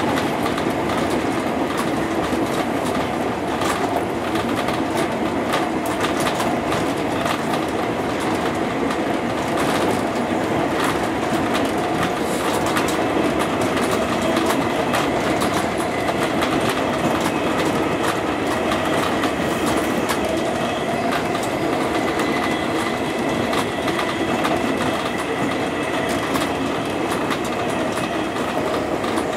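JR East 201 series electric commuter train running at speed, heard from the driver's cab: a steady rumble of wheels on rail with frequent clicks over the rail joints.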